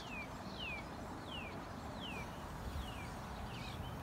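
A songbird singing a run of clear whistled notes, each sliding down in pitch, about one and a half a second, growing fainter near the end, over low steady background noise.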